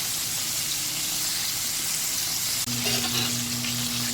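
Battered chicken pieces deep-frying in a pot of hot oil: a steady, even sizzle. About two-thirds of the way through, a low steady hum comes in under the sizzle.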